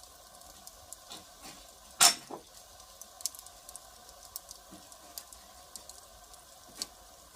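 Firewood fire crackling: scattered small pops and snaps, with one loud sharp pop about two seconds in.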